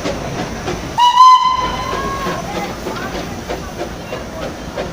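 Darjeeling Himalayan Railway locomotive sounding one whistle blast, starting about a second in and lasting just over a second, over the steady hiss and clatter of the running train.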